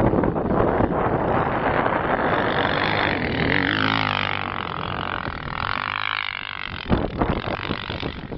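Motocross bike engine revving, its pitch sweeping up and down in the middle as it rides by.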